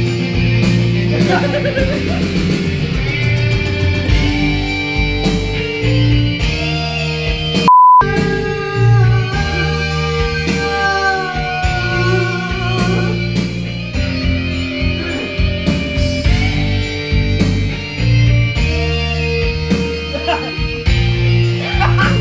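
Guitar-led rock music played by a band, with a steady beat. About eight seconds in, the music cuts out briefly for a short, loud, steady beep.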